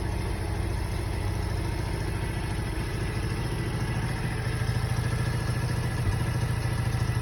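Motorcycle engine running at a steady, low pulse, growing a little louder about halfway through.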